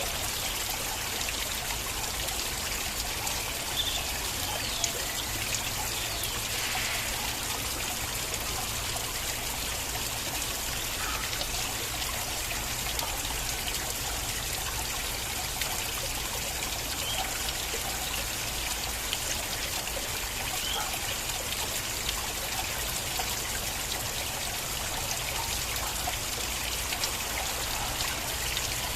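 Water flowing and trickling in a small stream, steady throughout, with small splashes and drips scattered through it.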